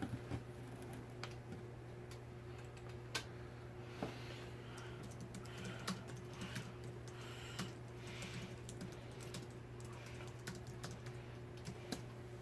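Faint, irregular clicks and taps of small metal hardware being handled as screws are taken out of a ceiling fan's mounting hardware, over a steady low hum.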